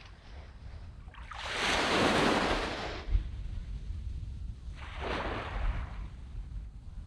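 Small waves breaking and washing up a sandy beach: a larger wash swells in about a second in and lasts a couple of seconds, then a smaller one comes near the five-second mark. A low wind rumble sits on the microphone underneath.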